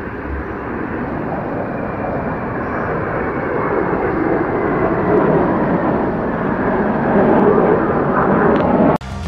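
Jet aircraft engine roar, a steady rushing noise that slowly builds, with a faint falling whine, cutting off suddenly near the end.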